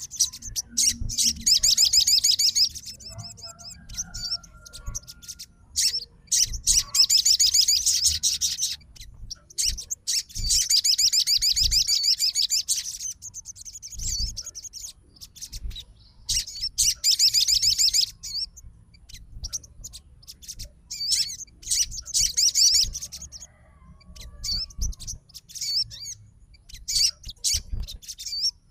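A sogon songbird singing in long, fast, high-pitched trilled phrases of one to three seconds each, separated by short pauses with scattered shorter chirps in between.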